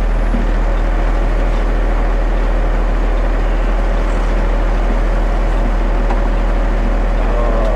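Concrete mixer truck's diesel engine running steadily with a deep, even drone.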